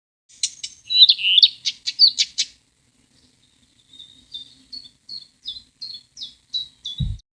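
Songbird calls: a quick burst of sharp chirps and warbled notes, then after a short gap a run of about ten short, repeated down-slurred notes at roughly three a second. A brief low thump comes near the end.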